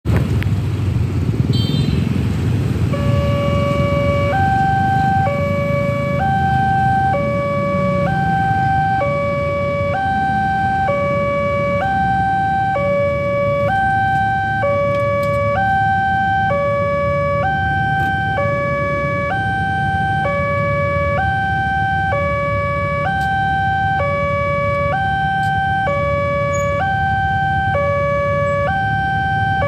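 Railway level-crossing warning alarm sounding an electronic two-tone signal, alternating between a low and a high tone about once a second from about three seconds in, which warns that a train is approaching. Under it runs a steady low rumble.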